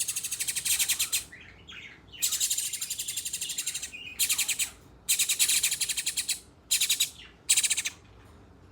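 Birds chirping rapidly and shrilly in repeated bursts of fast, high-pitched notes, with brief pauses between bursts: the begging calls of birds at feeding.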